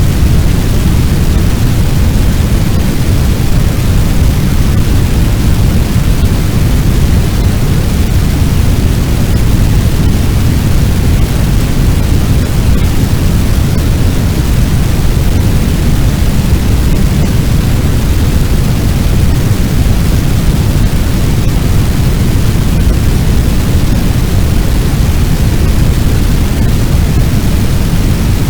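Fire sound effect: a loud, steady, deep rush of noise like a large blaze or fire-driven wind, with no crackles or breaks.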